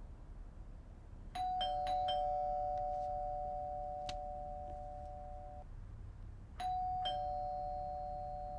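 Two-tone ding-dong doorbell chime, rung twice: each time a higher note then a lower one that ring on for a few seconds.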